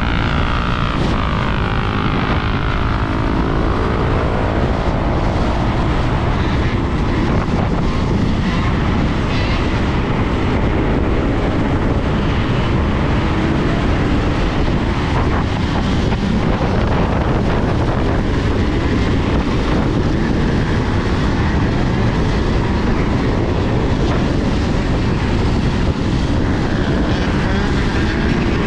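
Steady rush of wind and road noise on the microphone of a camera riding along on a Sur-Ron electric dirt bike. A whine glides in pitch during the first few seconds.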